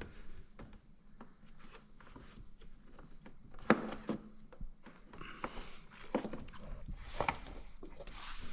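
Scattered clicks, taps and knocks of hands working with parts and tools, with one sharp click about three and a half seconds in.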